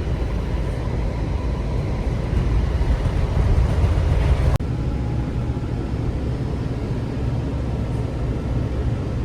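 Washington Metro railcar running at speed, heard from inside the car: a steady low rumble of wheels on track, broken sharply about four and a half seconds in and then running on as before.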